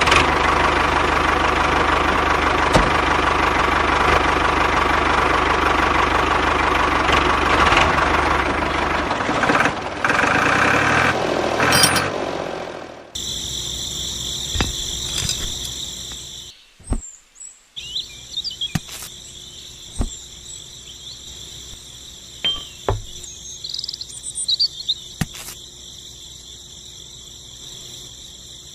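Motor of a handmade miniature tractor running loudly and steadily for about thirteen seconds, then cutting off suddenly. After that, crickets chirp steadily with a few scattered clicks.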